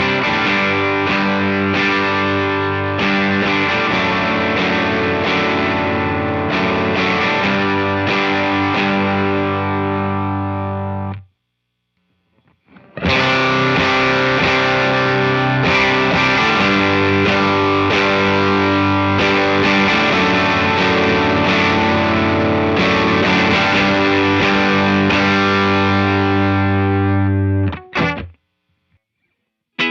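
Electric guitar riff played through a JHS Kilt overdrive pedal with all toggles down, into a Walrus Audio ACS1 amp simulator, with overdriven, ringing chords. The riff stops abruptly about eleven seconds in, and after a short silence a second take of the same riff plays and cuts off near the end.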